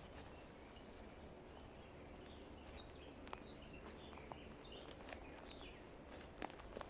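Faint forest ambience: a soft steady hiss of background noise with distant birds chirping through the middle, and a few sharp clicks at irregular moments.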